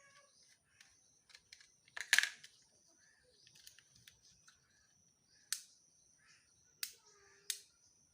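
A few sharp clicks and taps, the loudest about two seconds in and three more in the last three seconds, over a faint steady high whine.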